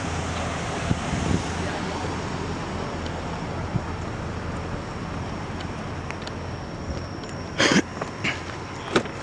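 A car engine idling steadily, with two short knocks near the end.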